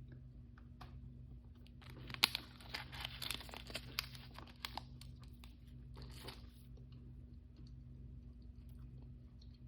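Blind-bag packaging being torn open and crinkled by hand: a burst of crackling tearing with sharp clicks about two seconds in, lasting some three seconds, then a shorter crinkle a little later.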